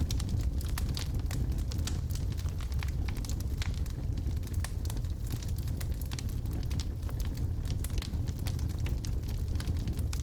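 Wood logs burning in a fireplace: a steady low rumble of the flames with frequent irregular crackles and pops.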